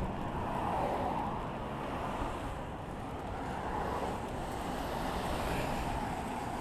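Steady rumble of passing road traffic, with trucks going by close at hand, mixed with wind noise on the microphone.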